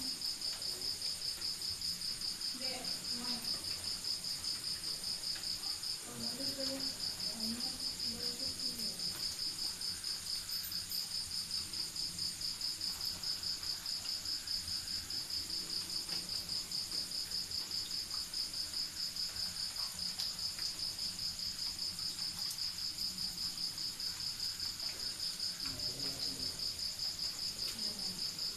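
Cricket chirping steadily at night, a high, fast, even pulsing that breaks off briefly about six seconds in.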